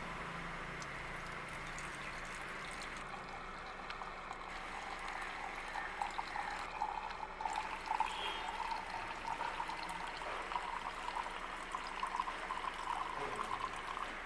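Petrol pouring and trickling through a makeshift tube feeding straight into the carburettor, priming the engine for its first start in years. The trickle gets livelier about halfway through.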